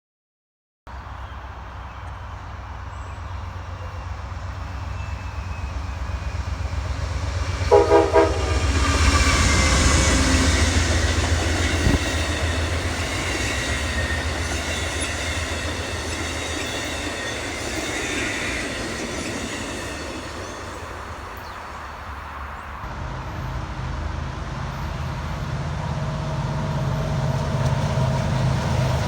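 A train passing: steady low rumble, a brief horn about eight seconds in, then the rolling noise of wheels on rail with thin high ringing as the cars go by. Near the end a different, steadier low engine sound takes over.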